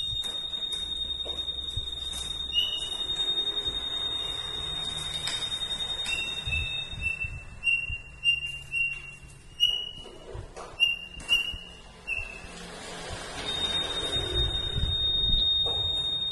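Songbird calling with a long, steady, high whistled note. About six seconds in it switches to a run of short, slightly lower whistles, about two a second, then goes back to the long high note near the end.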